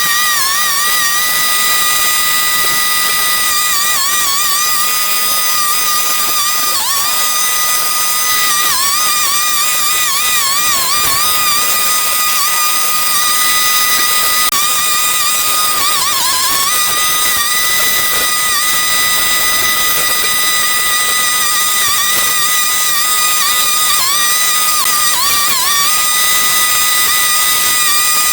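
A small two-stroke engine on a handheld cutting tool running at high revs, its high whine holding steady and dipping briefly every few seconds as it bogs under the cut.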